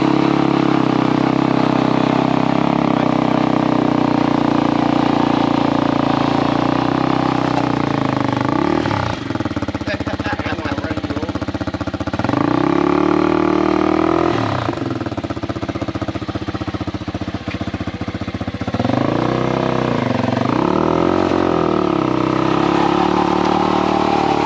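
Small dirt bike engine with a lawnmower-like sound, running steadily at first, then revved up and back down several times.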